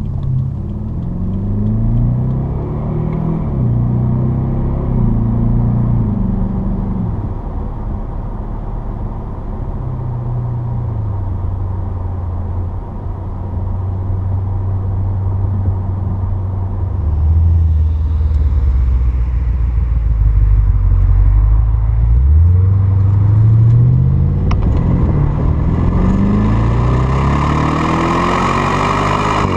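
2013 BMW 750Li's twin-turbo V8 exhaust through Flowmaster 50 Series Delta Flow mufflers while driving. The engine pitch climbs and steps down several times as it shifts up, holds steady for a while, drops lower, then climbs again under acceleration near the end.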